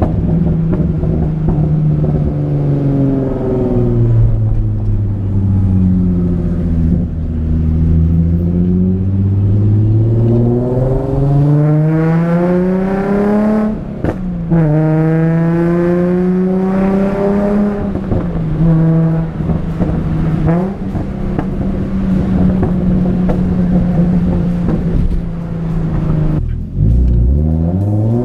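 Nissan VQ-series V6 engine of a manual sports car revving up through the gears, dropping in pitch at each shift, with a brief break about 14 seconds in. It then runs at a steady cruise, dips, and pulls up again near the end.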